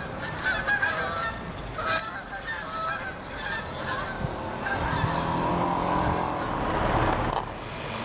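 Repeated honking bird calls in short bursts, then a steady mechanical hum for about the last three seconds.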